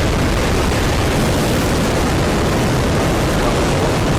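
Rocket engine test firing: a loud, steady roar with no pitch, even from low to high.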